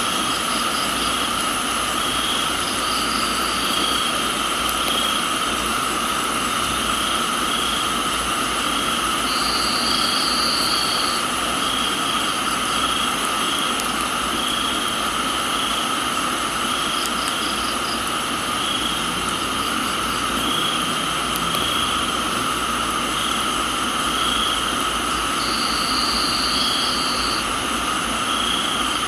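Steady rain hiss under a dense chorus of crickets and other tropical insects. One call pulses about once a second, and a higher trill comes twice, for a second or two each time, about a third of the way in and near the end.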